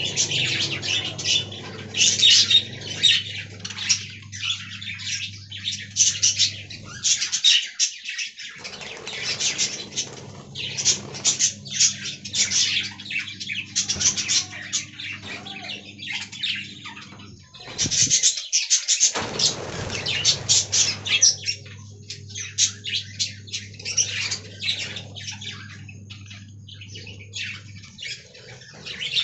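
Budgerigars chattering and chirping non-stop in a fast stream of short high calls, over a steady low hum that drops out twice.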